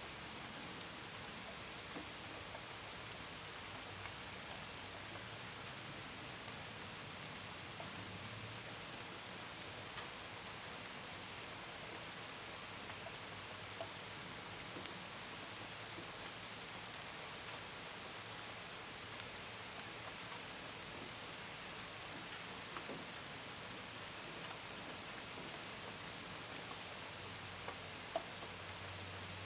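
Steady gentle rain, with scattered drops ticking against a window and gutter, and crickets trilling in a continuous high band above it. One sharper drop tick stands out near the end.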